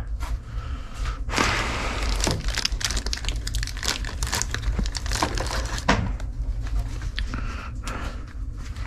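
Irregular clicks, clinks and rustling of someone rummaging through loose hardware, over a steady low hum.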